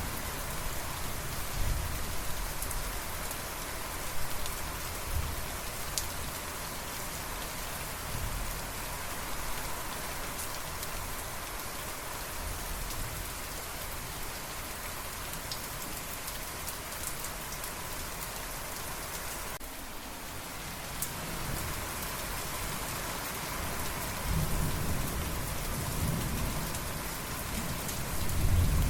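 Steady rain falling on surfaces, with fine drop ticks throughout. Low rumbles of thunder come now and then and are loudest near the end.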